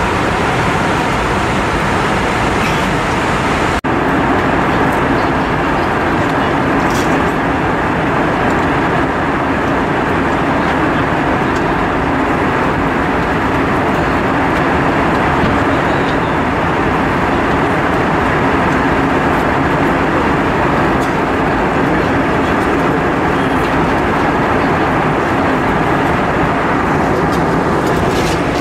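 Steady cabin noise inside an Airbus A320-232: an even, loud rush of its IAE V2500 turbofan engines and air, broken briefly about four seconds in.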